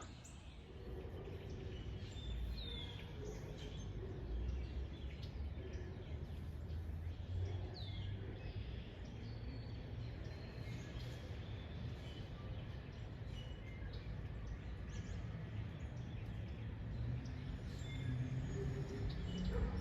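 Outdoor ambience: scattered short bird chirps and brief falling whistles over a steady low rumble.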